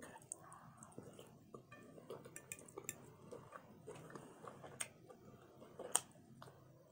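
Close-miked chewing and soft wet mouth sounds of someone eating barbecue rib tips, with a few sharp clicks of a fork against a glass dish, the loudest about five and six seconds in.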